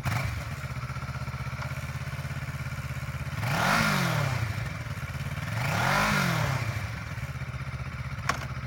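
2015 Kawasaki Ninja 650's parallel-twin engine idling, blipped twice in quick rising-and-falling revs before settling back to idle.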